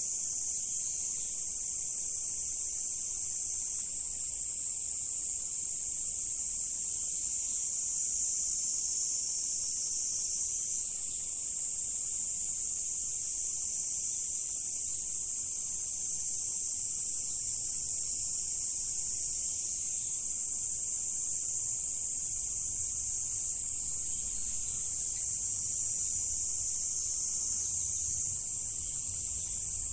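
A chorus of insects calling, a continuous high-pitched shrill drone that holds steady without pause.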